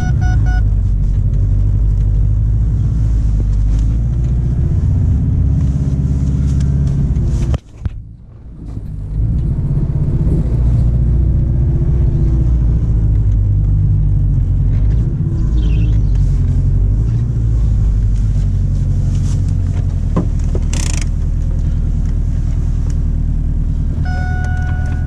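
Ford Focus engine running as the car moves off, a steady rumble with the revs rising and falling. The sound cuts out briefly about eight seconds in, and short beeping tones come near the end.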